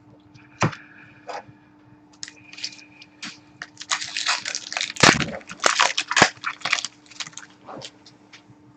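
Trading cards and a foil pack wrapper being handled: a few sharp clicks, then a dense run of crinkling about halfway through.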